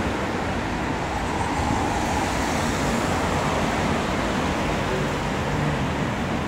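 Steady noise of road traffic on a city street.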